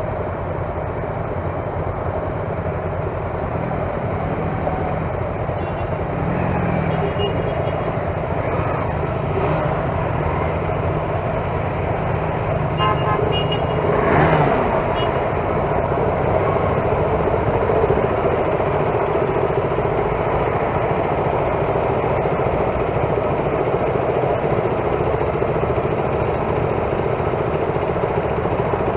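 Motorcycle running on the road, its engine steady under a haze of wind and road noise. About halfway through there is a brief louder swell whose pitch falls, like a vehicle passing.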